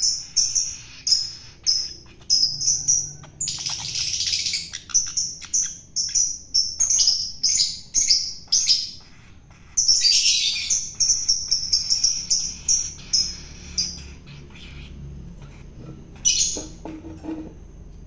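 Long-tailed shrike (cendet) calling: a quick series of short, high chirps broken by two harsh, rasping stretches, thinning out near the end.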